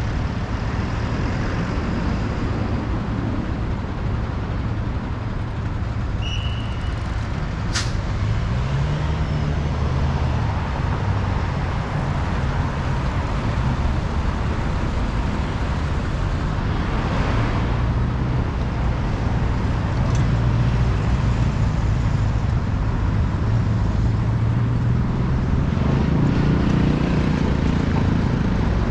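City road traffic: motor vehicles' engines running and passing, over a steady rush of road noise. There is a short high tone about six seconds in and a sharp click just before eight seconds.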